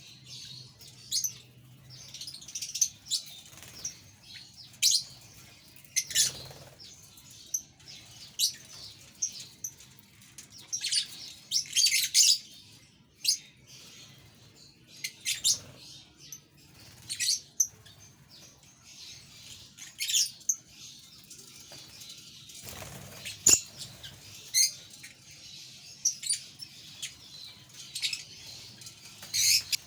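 A flock of budgerigars chirping: many short, high, sharp chirps and tweets scattered irregularly, with wing flapping now and then.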